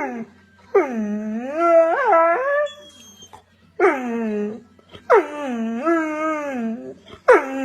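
A dog making long, howling 'talking' vocalisations: four drawn-out calls that bend up and down in pitch, with short pauses between. The dog is vocalising to ask for more play.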